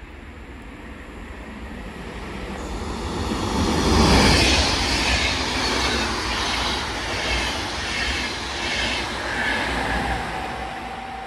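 VR double-deck InterCity train passing through a station platform. The rumble and wheel noise build to a peak about four seconds in as the front of the train goes by, then continue as a rhythmic clatter from the coaches' wheels, easing off near the end.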